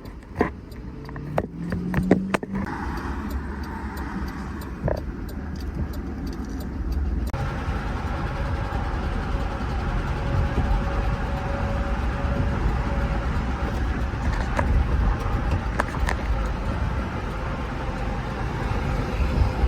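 GMC Yukon XL's 5.3-litre V8, badly rod-knocking, running as the truck is driven, with cabin and road noise that gets louder about seven seconds in. A few clicks and knocks near the start.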